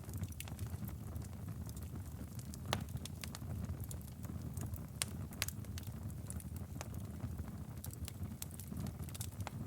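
Wood fire in a fireplace crackling: irregular sharp pops and snaps over a low, steady rumble of the flames, with a few louder pops at about three seconds in, twice around five seconds in, and near the end.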